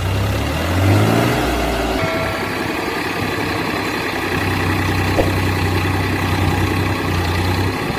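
A heavy vehicle's engine revving up and down, then, after an abrupt change about two seconds in, running steadily.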